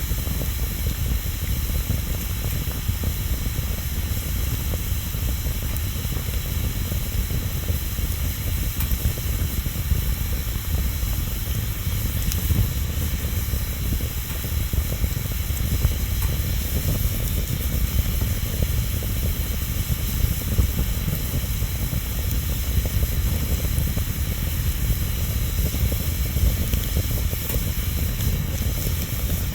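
Wood bonfire burning: a steady low rush of flame with a few faint crackles of burning wood.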